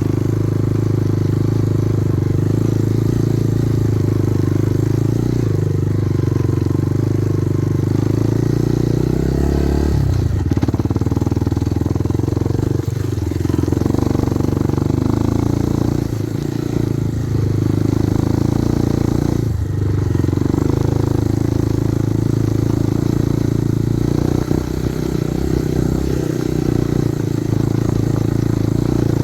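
Kovi Advance 250 enduro motorcycle's engine running steadily while being ridden, its note shifting about ten seconds in, with a few sharp knocks from riding over rough ground.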